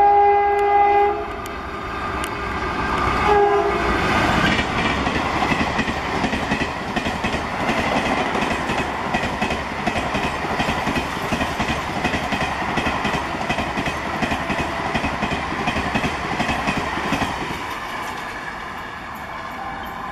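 Locomotive horn of a fast express train sounding on its approach and cutting off about a second in, then a short second blast about three seconds in that drops in pitch as the locomotive passes. The coaches then rush past at speed with a steady rumble and wheel clatter over the rail joints, fading away near the end.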